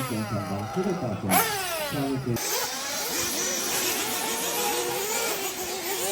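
Small nitro engines of 1/8-scale off-road RC buggies racing, with their pitch rising and falling as the throttle opens and closes. For about the first two seconds one car's sweeps stand out, then several engines run together.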